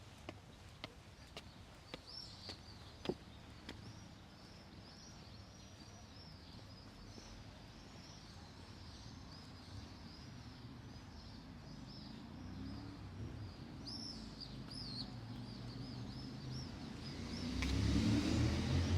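Street ambience: a few footstep clicks at first, then small birds chirping over and over, and a car approaching whose engine and tyre rumble builds and becomes the loudest sound near the end.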